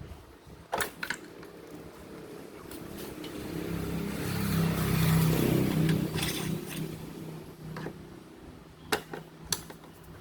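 A motor vehicle passing by, its engine hum swelling to its loudest about halfway through and then fading. A few sharp clicks and knocks, a pair about a second in and another pair near the end.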